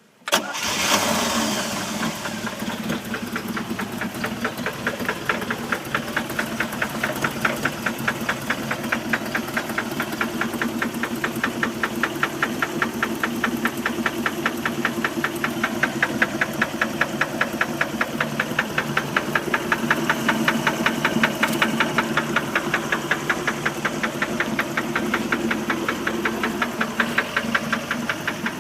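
1988 MerCruiser 3.0 L four-cylinder marine engine starting up and then running with a steady, regular knock that keeps time with the engine. The knock is the fault the owner is asking about, its cause undiagnosed.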